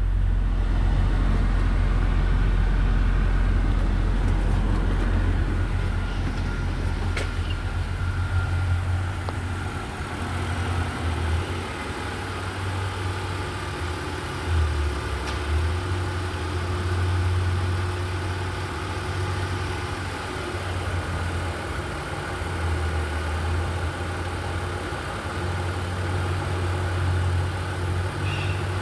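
Engine running steadily at idle on a test run, a continuous low drone that is deepest over the first several seconds and then settles into a lighter, slightly uneven hum.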